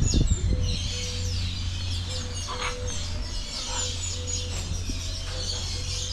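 Many small birds chirping and twittering high-pitched, with a short low note repeating about twice a second, over a steady low hum. A few low knocks sound in the first half second.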